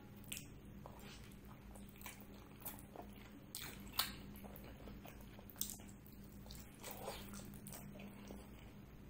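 Close-up mouth sounds of eating mutton paya and rice: soft wet chewing and smacking with scattered sharp clicks, the loudest about four seconds in, over a faint steady hum.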